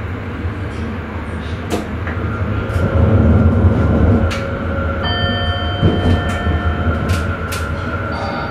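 Sprinter electric commuter train running on the track, heard from the driver's cab: a steady low rumble of wheels on rail with a few sharp clicks, as over rail joints or points. Thin, high whining tones join about five seconds in.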